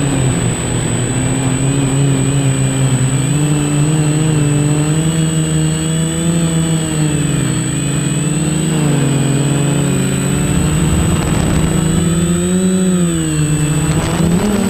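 Quadcopter's electric motors and propellers whining, the pitch rising and falling continually with the throttle, with a quick surge near the end. A steady thin high tone sits above it.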